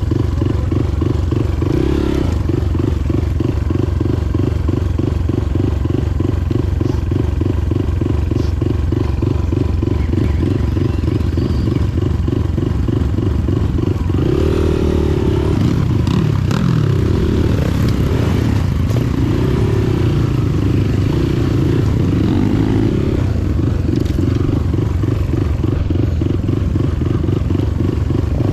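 Motorcycle engine running with a steady, fast, even pulse. From about halfway through, a wavering tone rises and falls over it for several seconds.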